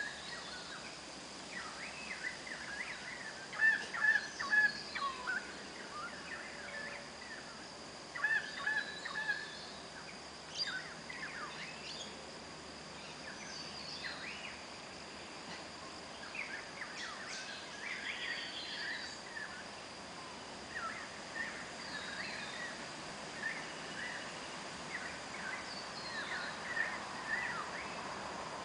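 Wild birds calling and chirping in short, scattered trills and chirps, loudest a few seconds in and again around eight seconds, over a thin steady high tone.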